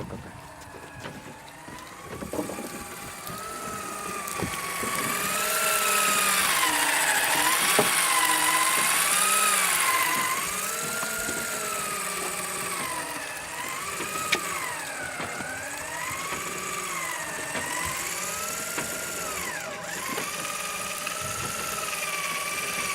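Motor of an electric fishing reel whining as it winds line in, its pitch rising and falling smoothly about every two seconds as the load changes.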